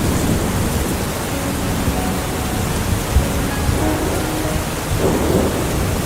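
Tropical rain falling steadily, with a low rumble underneath that PANN takes for thunder, and one brief low thump about three seconds in.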